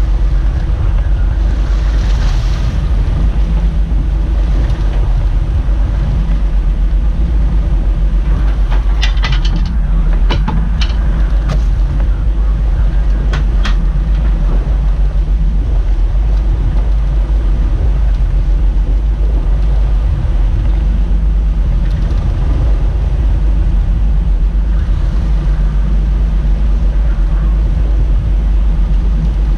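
Fishing boat's engine running steadily, a constant low drone, with a few short knocks or clicks about ten to fourteen seconds in.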